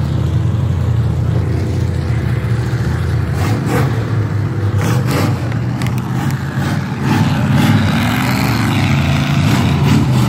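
Ford pickup truck engine running steadily, then revving up about seven seconds in, with a few short sharp knocks along the way.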